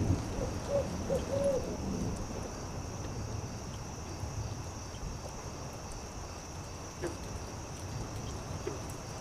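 An owl hoots three short times in the first second and a half, over a campfire crackling softly with scattered pops. A steady high drone runs underneath.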